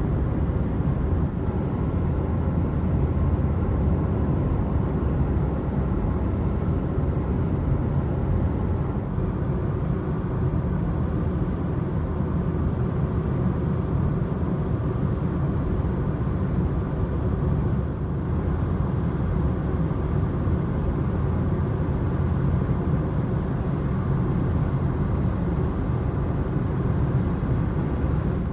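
Car driving at highway speed: a steady low rumble of engine and tyre noise heard from inside the cabin.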